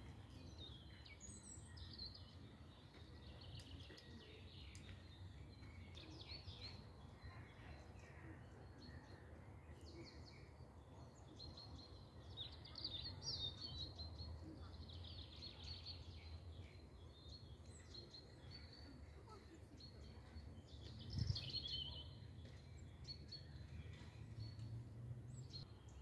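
Several small wild birds singing and calling: many short chirps and trills, with louder bursts a little past halfway and about three quarters through, over a faint steady low rumble.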